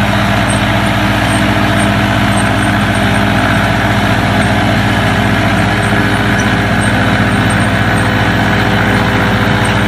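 A loud, steady motor or engine drone with a constant low hum, unchanging throughout.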